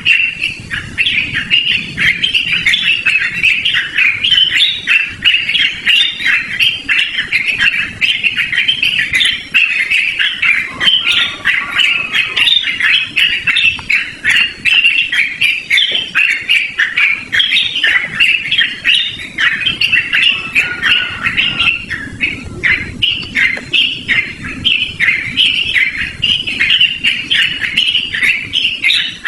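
Yellow-vented bulbul (trucukan) singing a long, unbroken run of quick, short notes.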